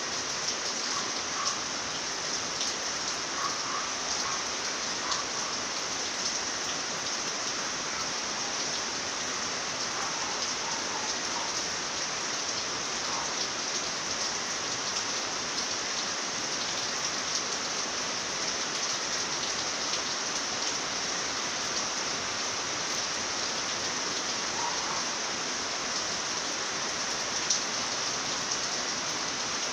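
Steady night rain falling, an even hiss with many individual drops ticking on a surface, one louder drop near the end.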